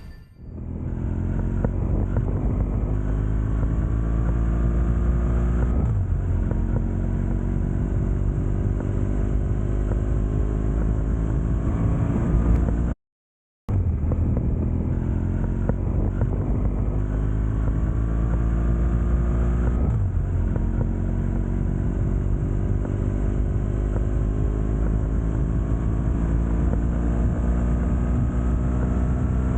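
Motorcycle engine heard from the bike while riding, rising slowly in pitch as it pulls through the gears, with the pitch dropping at upshifts about 6 and 20 seconds in and again near the end. The sound cuts out completely for under a second about midway.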